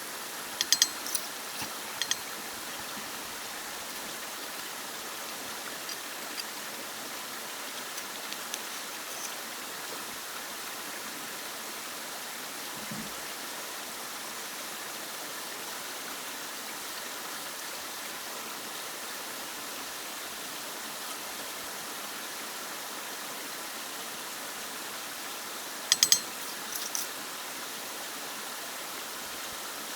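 Steady rush of flowing water, like a stream, with a few short sharp high clicks about a second in and again near the end.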